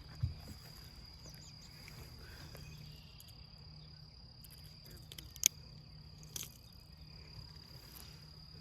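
Crickets trilling in one steady high note, with a few sharp clicks scattered through.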